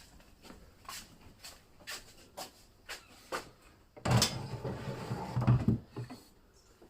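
Ford Anglia 105E engine, primed with fuel poured in by hand, fires suddenly about four seconds in and runs roughly for about two seconds before dying, after a few light clicks and knocks.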